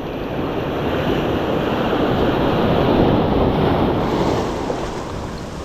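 Sea surf washing in: one wave surge swells and then eases off, with wind on the microphone.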